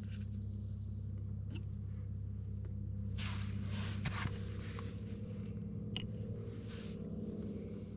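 Light scraping and handling noises, a few short rustling scrapes and a small click, over a steady low hum.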